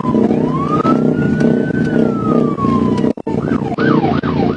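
Police car siren in a slow wail that rises and falls once, then switches about three seconds in to a fast yelp cycling a little over twice a second, with the cruiser's engine and road noise steady underneath.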